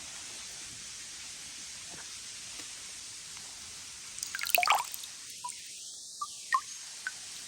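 Water dripping and splashing over a steady rush of falling water: a quick cluster of drips about halfway through, then a few single drops plinking near the end.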